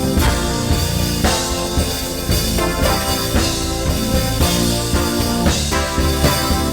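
Live worship band playing instrumental music without singing: a drum kit keeping a steady beat under sustained chords.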